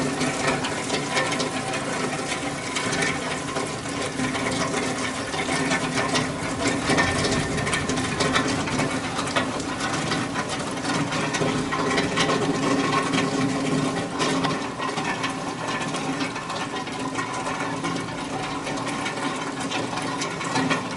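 Steady rain shower falling, a continuous hiss with a dense patter of close drops.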